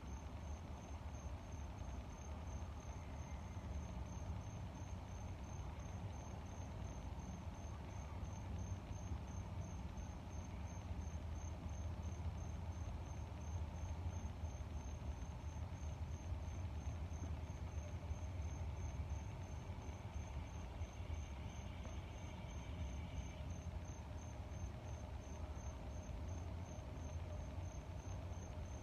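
A cricket chirping steadily in a regular high-pitched pulse, about two chirps a second, over a steady low rush of air.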